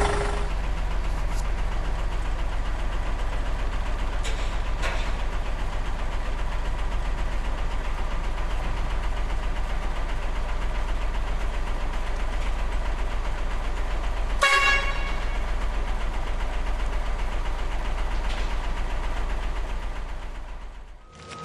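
Truck engine idling steadily with a fast, even pulse, and a single short horn toot about fourteen seconds in. The engine sound fades out near the end.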